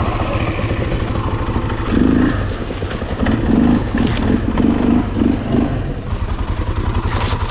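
Off-road vehicle engine running with a steady, even firing pulse, getting louder in surges about two seconds in and again from about three to nearly six seconds in as it is given throttle in gear.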